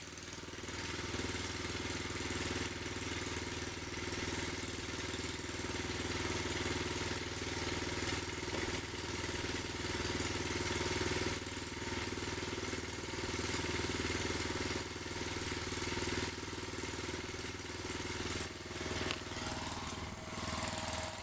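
Exmark mower's engine, which the owner thinks is a 15 horsepower Kawasaki, running steadily as the mower is driven up wet metal ramps into a truck bed; the belt slips on the wet ramps. The engine note rises about a second in and dips briefly near the end.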